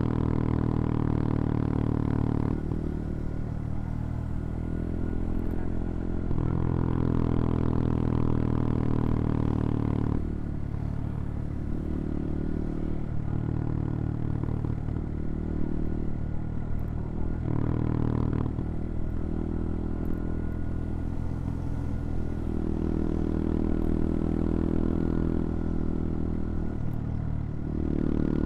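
CFMoto Papio XO-1 minibike's small single-cylinder engine running under way. The engine note swells and eases every few seconds as the throttle is opened and closed.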